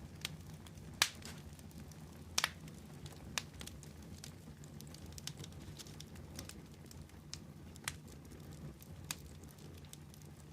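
Wood fire burning with a steady low rumble and irregular sharp crackles and pops, the loudest about one second and two and a half seconds in.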